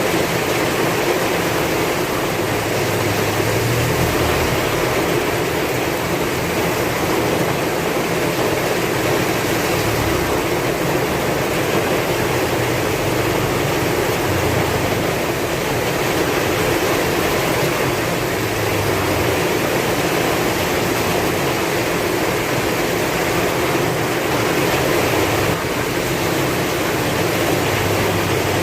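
Heavy rain falling steadily, with strong wind gusting in low rumbles that come and go every few seconds.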